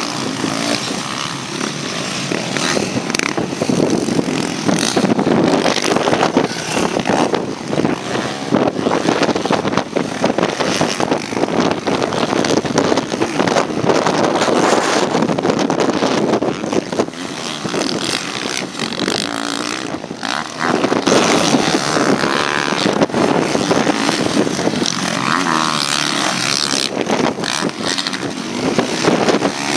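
Motocross bikes racing on the track, their engines revving up and down through the gears as they pass.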